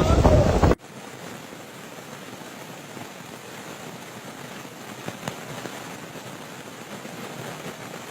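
Storm wind roaring loudly over the microphone, cut off abruptly under a second in. It gives way to a much softer, steady hiss of stormy weather with a few faint ticks.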